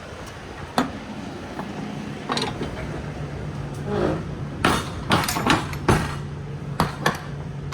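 Irregular knocks and metallic clanks of freight being handled and secured inside a semi-trailer, several close together a little past the middle, over a steady low hum.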